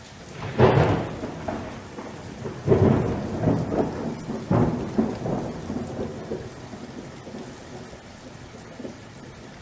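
Thunder rolling during heavy rain: three loud claps, near the start, about three seconds in and about four and a half seconds in, each dying away in a long rumble over the steady hiss of rain.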